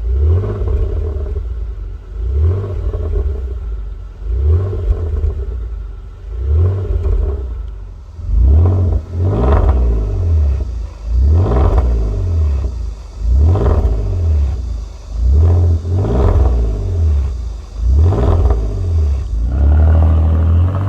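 Hyundai Genesis DH 330's 3.3-litre V6 revved over and over through a custom-built valved exhaust, giving a deep, heavy exhaust note. About ten revs, roughly one every two seconds, shorter at first and climbing higher from about a third of the way in.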